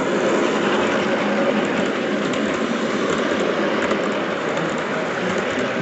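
Train rolling along its track: a steady rolling noise with faint, irregular clicks of wheels over the rails.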